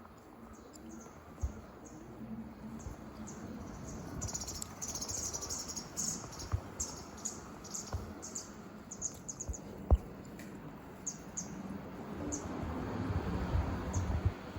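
A rapid run of short, very high-pitched bird chirps, starting about four seconds in, busiest for the next few seconds and thinning out toward the end. A couple of sharp knocks, the loudest about ten seconds in, and a low rumble near the end.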